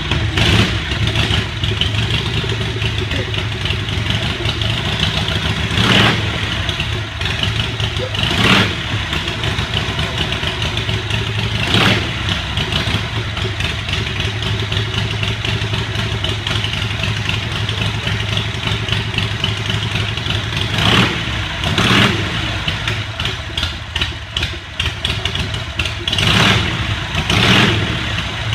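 Old motorcycle engine, on a bike built from a Harley-Davidson Servi-Car, running steadily at idle with a throttle blip every few seconds.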